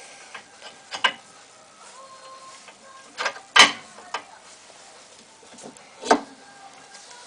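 A few sharp knocks and clicks, like metal parts or tools being handled, about a second in, twice in quick succession around three and a half seconds in, and once a little after six seconds.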